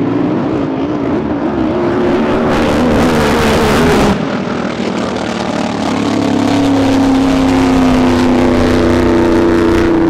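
Racing drag boat engines running at full throttle during a pass. For the first four seconds the engine note wavers up and down, which fits boats hopping on the water, as they were said to be. The sound cuts off suddenly about four seconds in, and a steadier engine drone then takes over and rises slightly.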